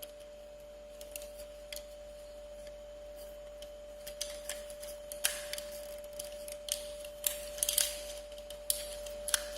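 Plastic action-figure parts being handled and fitted together: scattered sharp clicks and short rustles, busier and louder in the second half, over a steady faint high hum.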